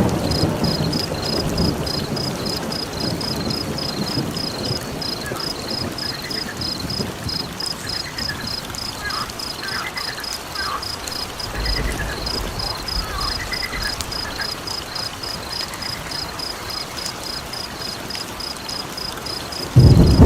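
Rapid, evenly pulsed high chirping of crickets over the steady hiss of rain, with a few faint short calls in the middle. A rumble of thunder fades over the first couple of seconds, and another breaks in loudly just before the end.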